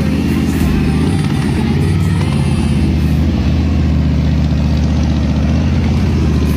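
Harley-Davidson Street Bob's V-twin engine idling steadily, shortly after being started.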